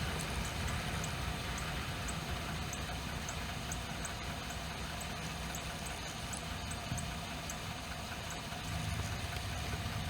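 Norfolk Southern freight train rolling past: a steady rumble of steel wheels on the rails, with faint regular ticks about two a second.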